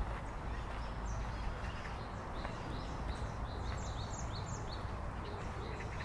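Small birds chirping in a pine wood: many short, quick falling chirps, busiest in the middle, over a steady low rumble. Footsteps on a dirt path tick faintly underneath.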